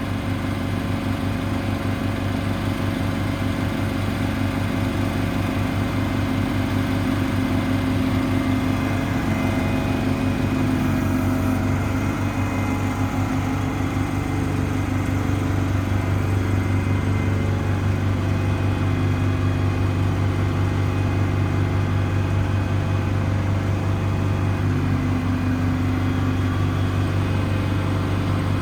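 Paccar PX9 diesel engine of a Peterbilt service truck running steadily at raised idle, driving the hydraulics for the crane and air compressor. The hum shifts slightly about a third of the way in and again near the end.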